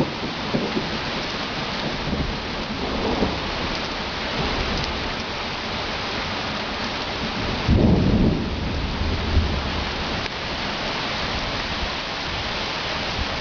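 Heavy rain falling steadily, with low rumbles of thunder, the loudest about eight seconds in.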